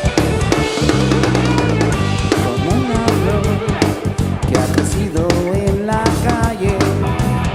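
Rock song playing: a full drum kit with bass drum and snare under guitars, with a wavering melody line coming in over the second half.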